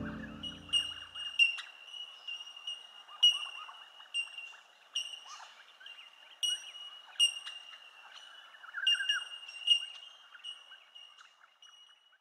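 The last low notes of music die away just after the start, leaving bird calls: sharp high chirps and short squiggly calls over a steady high-pitched tone, fading out toward the end.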